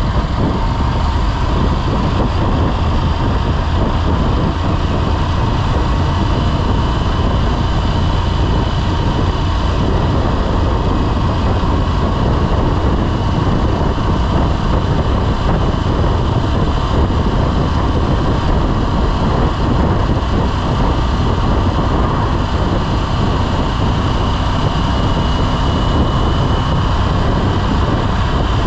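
Motorcycle riding at a steady speed: engine and wind noise on the onboard microphone make a loud, steady low rumble.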